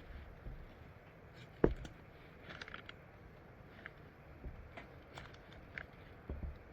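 Scattered light clicks and taps, with one sharp knock about a second and a half in.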